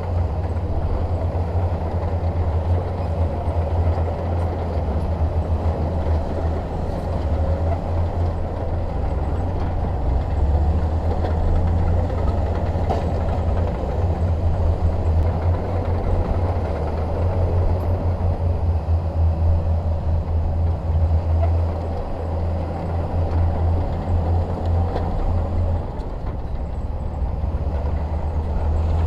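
Bulldozer's diesel engine running steadily with a deep, constant low rumble.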